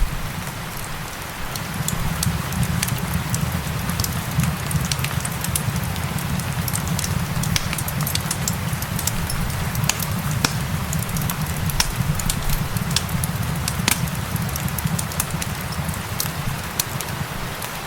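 Fireplace fire crackling with frequent sharp pops and clicks over a steady patter of rain and a low rumble.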